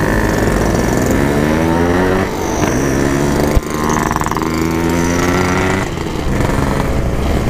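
Yamaha RX King two-stroke single-cylinder motorcycle engine running under way, its pitch climbing, then dropping back after a short click about three and a half seconds in.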